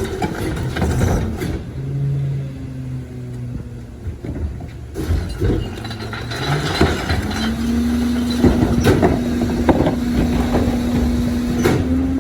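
Leach 2R-III rear-loading refuse truck on a CNG Crane Carrier chassis running with its body machinery working: a steady mechanical drone that steps up to a higher steady whine about seven and a half seconds in, with scattered metallic knocks and clanks.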